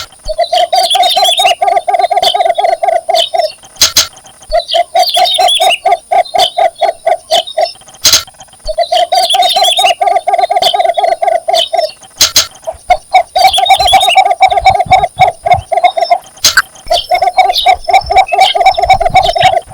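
Cinnamon bittern giving its mate-attracting call: runs of rapid, evenly repeated clucking notes on one pitch, each run about three seconds long, five runs with short pauses between.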